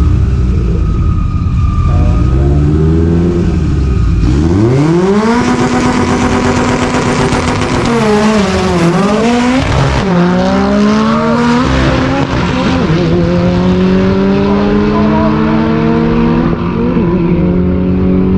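Turbocharged Subaru WRX STI flat-four at full throttle down a drag strip. A low rumble for the first few seconds, then about four seconds in the revs climb sharply as it launches, drop back at a couple of quick upshifts, and climb steadily again.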